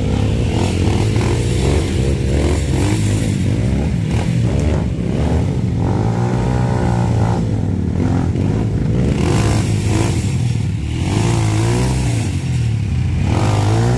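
Yamaha WR155 single-cylinder four-stroke trail bike engine being ridden, its pitch rising and falling over and over as the throttle is opened and closed.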